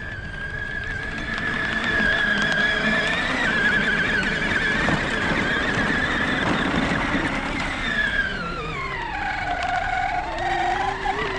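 Electric motor whine of a Power Wheels ride-on toy four-wheeler driving over a silage pile. The whine holds steady, drops sharply in pitch about eight seconds in as the motor slows under load, then starts rising again near the end.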